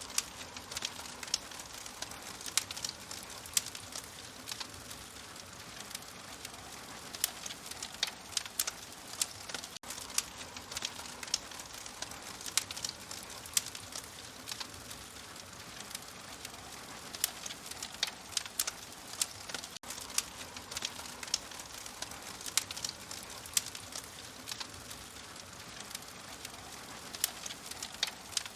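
Open wood fire crackling: frequent, irregular sharp pops and snaps over a steady soft hiss.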